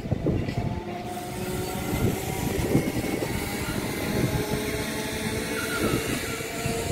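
Electric multiple-unit suburban local train running past on the rails, a continuous rumble and clatter of wheels with a steady whine over it. A hiss in the upper range fills in about a second in.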